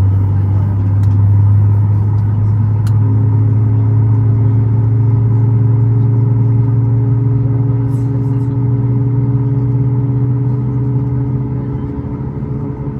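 Cabin drone of a Boeing 737 MAX 8's CFM LEAP-1B engines running: a loud, steady low hum, with two higher steady tones joining about three seconds in.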